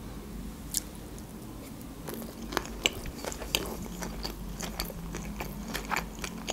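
A person chewing sushi rolls close to the microphone: a run of small crunchy, moist mouth clicks that come thicker from about two seconds in.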